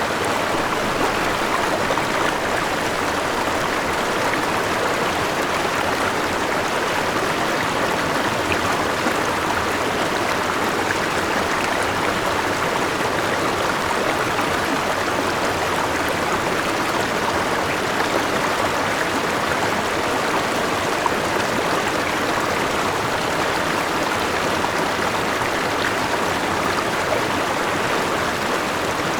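Forest river and small waterfall rushing in a steady, even flow.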